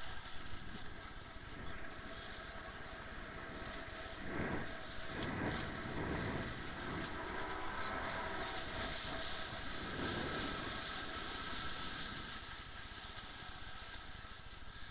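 Motorboat under way: steady engine and water noise, with wind rumbling on the microphone in gusts from about four seconds in and a stronger hiss a little later.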